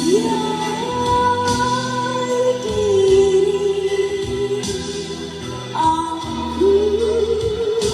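A song: a singing voice slides up into long, wavering held notes over an instrumental backing.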